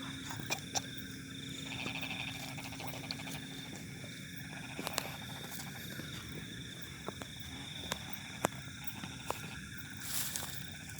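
Night chorus of frogs calling in a rice paddy, with a steady high-pitched insect drone and scattered sharp clicks.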